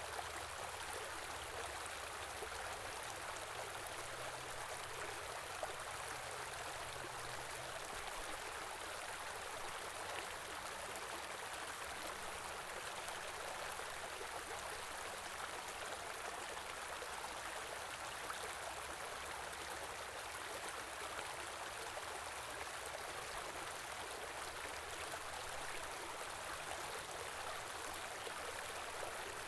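Small river running steadily, a continuous rush and babble of flowing water.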